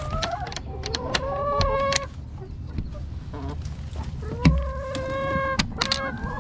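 Backyard hens making drawn-out, steady calls twice, each about a second long, with scattered clicks and knocks around them.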